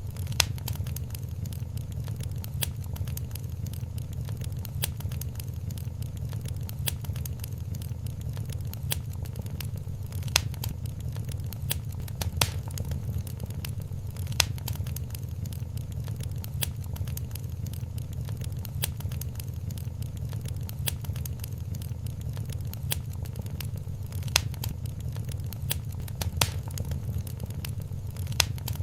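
Wood fire in a fireplace crackling, with irregular sharp snaps and a handful of louder pops, over a steady low rumble.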